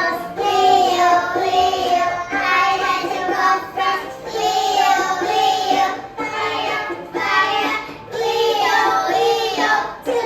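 Young children singing a song, in phrases of about two seconds with short breaks between them.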